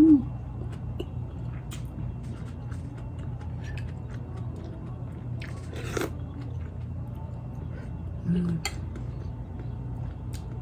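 A person chewing food close to the microphone, with small mouth clicks and smacks scattered through, over a steady low hum. A brief low 'mm' hum sounds about eight seconds in.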